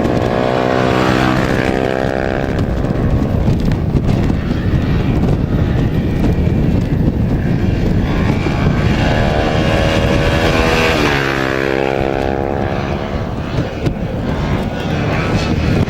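Rally motorcycle or quad engines passing at speed twice, once in the first few seconds and again around the middle. The second pass drops in pitch as it goes by. A constant rushing noise runs underneath.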